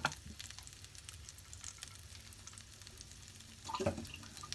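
Faint crackling sizzle of oil frying in a pan, with a sharp utensil knock at the start and a short clatter about four seconds in.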